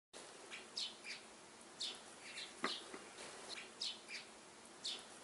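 Small birds chirping faintly: short high chirps, several to the second at irregular spacing, with a couple of sharper ticks among them.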